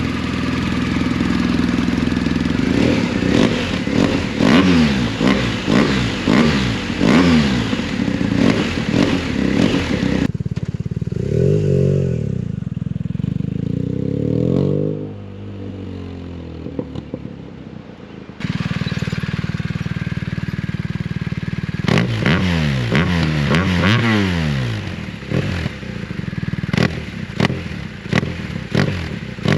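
BMW R 1250 GS Adventure flat-twin engine through an Akrapovic full stainless-steel exhaust with the catalytic converter deleted, revving up and down again and again and running loud. It drops to a quieter, muffled stretch midway, and there are sharp cracks near the end.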